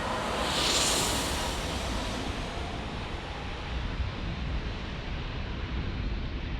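Jet airliner engine noise at an airport: a broad hiss that swells about a second in and then fades into a steady low rumble.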